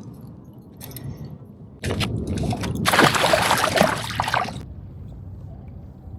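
Water splashing and sloshing for about three seconds, starting about two seconds in and stopping fairly sharply, over a low steady rumble.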